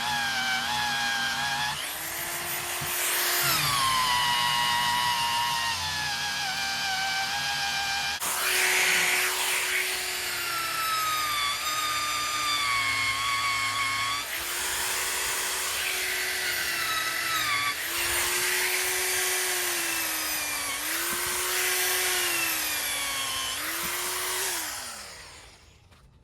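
Drill spinning a rubber eraser wheel against a truck's paint to strip emblem adhesive. It runs in stretches of a few seconds, dipping in pitch between them as the trigger eases, then winds down and stops near the end.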